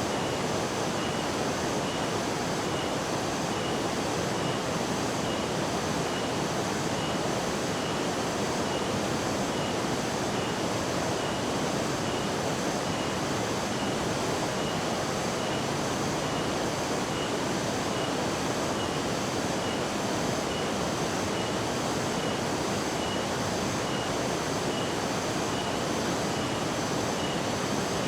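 Steady roar of a large waterfall falling about 60 m, with rain. A faint high beep repeats a little over once a second throughout.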